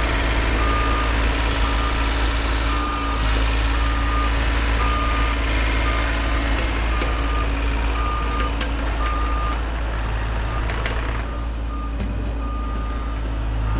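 Heavy machine's engine running while its backup alarm beeps at a steady, regular pace, the signal that the machine is reversing. A few sharp clicks come near the end.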